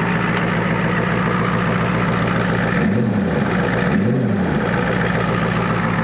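A 1994 Ford F Super Duty's 7.3 IDI V8 diesel idles steadily, freshly revived after sitting for years. It revs briefly twice, about three and four seconds in, each time rising and falling back to idle.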